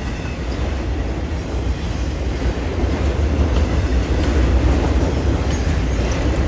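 Freight train's autorack cars rolling past on the rails, a steady low rumble of wheels and cars, with a few faint high wheel squeals.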